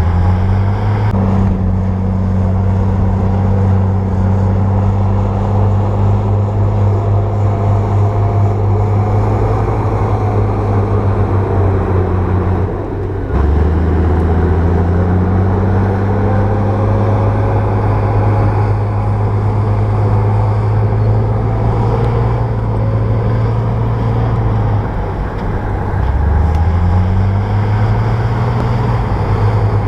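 Bulldozer's diesel engine working under load, its pitch climbing as it revs up near the start, dropping and climbing again about halfway through, and dipping and rising once more near the end.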